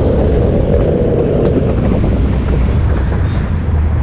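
A car engine idling nearby, a steady low rumble, with wind noise on the microphone.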